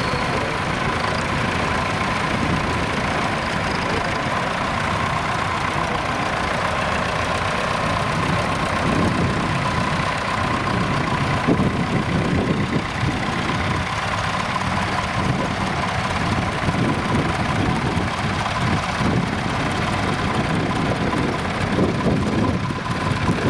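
Nuffield tractor engines running at idle, with a steady high tone above the engine noise.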